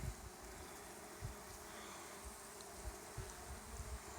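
Honeybees buzzing in numbers at a hive entrance, a faint steady hum of many bees, with a few soft low bumps scattered through it.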